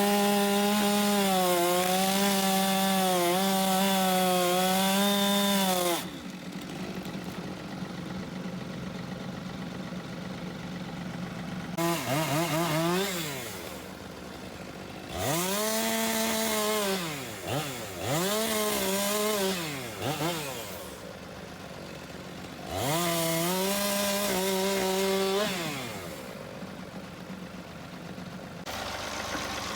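Chainsaw cutting wood at full throttle in five bursts of one to six seconds. The engine pitch rises sharply at the start of each cut and drops back toward idle between cuts.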